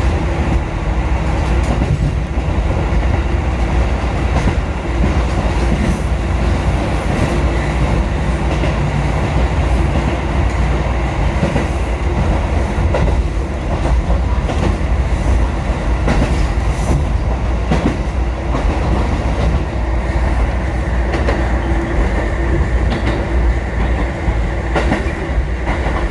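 Kotoden electric train of 1080 and 1100 series cars running at speed along the line: a steady rumble of wheels on rail, with faint clicks from the track joints.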